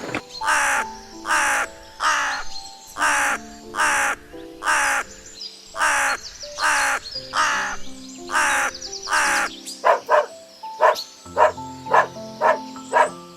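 A bird calling loudly and repeatedly, about two calls a second, changing to quicker, shorter calls near the end, over background music.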